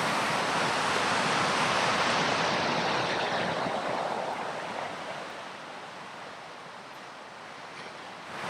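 Ocean surf: a wave breaking and washing up the beach, loud at first and fading off about halfway through, with the next wave building near the end.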